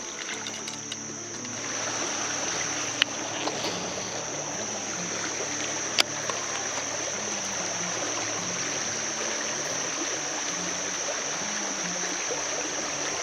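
Creek water running steadily, getting louder about a second and a half in, under a steady high buzz. Two sharp clicks come about three and six seconds in.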